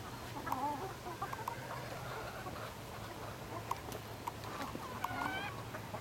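Domestic chickens clucking, in short scattered calls.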